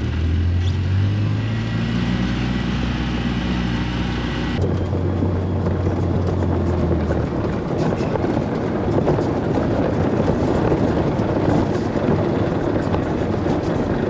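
Polaris Ranger side-by-side running steadily while driving along a forest logging road. About four and a half seconds in, the sound changes abruptly to a rougher, noisier rumble of tyres and wind.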